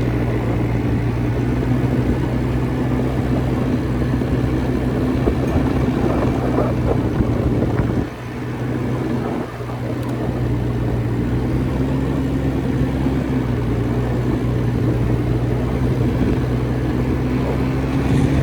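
Quad bike engine running steadily while being ridden, easing off briefly about eight seconds in before picking up again.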